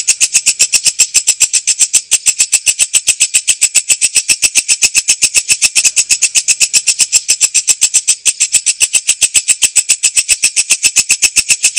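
A walang kecek katydid singing: a steady, fast train of sharp, high-pitched chirps at about seven a second.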